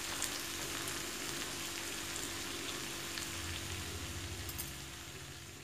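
Snake gourd sabzi sizzling in a kadhai on the stove: a steady hiss with scattered small pops, fading away near the end.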